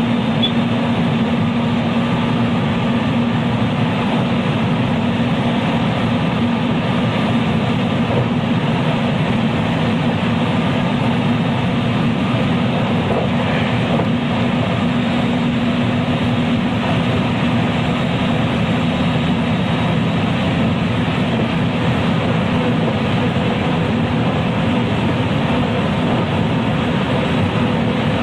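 JR West 223 series electric train running at steady speed, heard from inside the motor car KuMoHa 223-3016. Wheel and rail noise is even and loud throughout, with a steady motor hum underneath.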